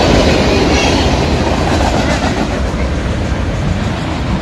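Freight train rolling past close by: a steady rumble and clatter of wheels on rail.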